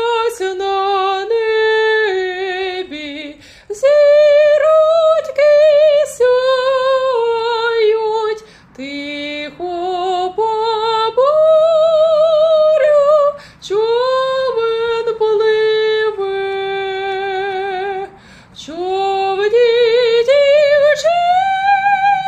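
A woman singing a slow melody, holding long notes with a wide vibrato, with short pauses between phrases and little or no audible accompaniment.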